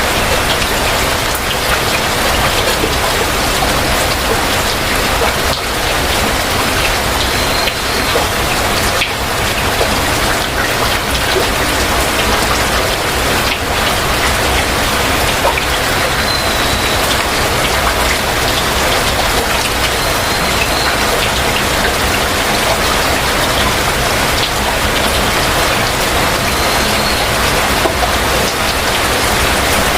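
Heavy rain falling steadily, an even hiss of drops. A bird gives four short, faint high chirps spread through the rain.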